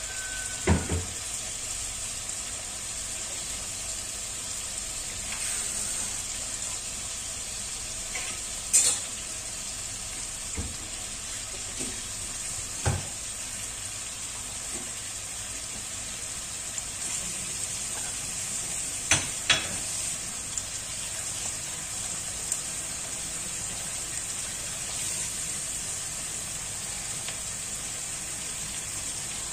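Chicken, onion and spices frying in oil in a heavy pot: a steady sizzle, with a few sharp knocks scattered through.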